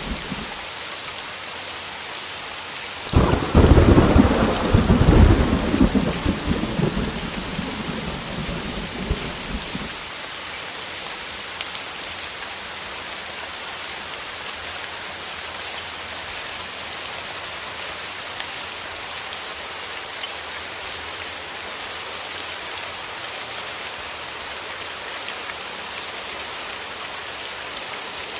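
Heavy rain falling steadily, with a thunderclap that breaks sharply about three seconds in and rumbles away over the next several seconds.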